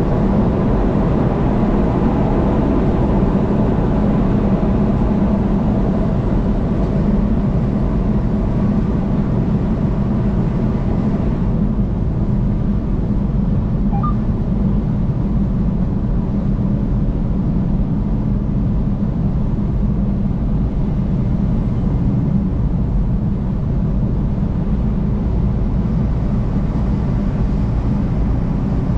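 Steady road noise of a car driving on a highway: a low rumble of tyres and engine. The higher hiss eases off about eleven seconds in.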